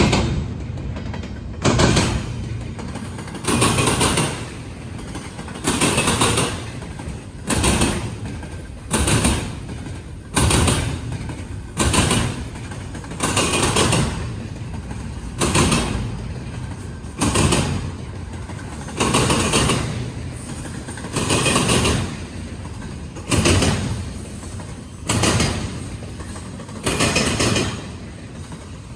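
Train rolling slowly past, its wheels clacking over track joints in a steady rhythm of about one heavy clack every second and a half to two seconds, over a constant rumble.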